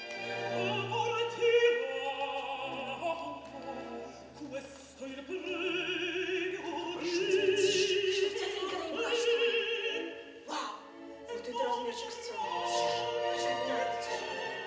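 An operatic woman's voice singing with wide vibrato over an orchestral accompaniment.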